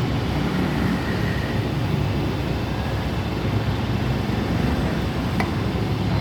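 A machine running steadily with a low hum and rumble, and one sharp click about five and a half seconds in.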